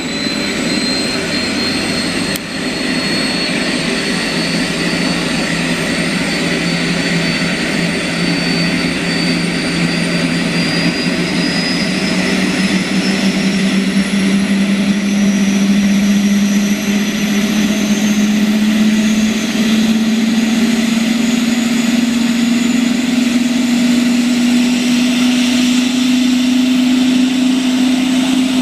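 Turbine engine of the helicopter JA6051 starting up: a high whine that rises steadily in pitch as the engine spools up, over a lower hum that also climbs.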